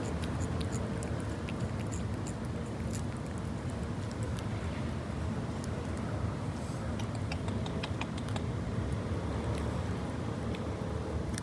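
Cat licking meat puree from a squeeze-tube treat: quick small wet clicks of the tongue, irregular, over a steady low rumble of traffic or wind.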